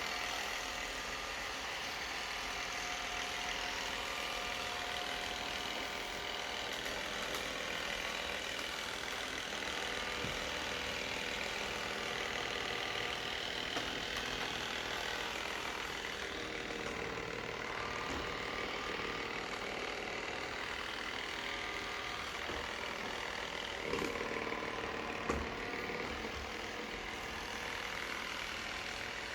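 Robot vacuum cleaner running with a steady motor whir, and two short knocks about a second apart near the end.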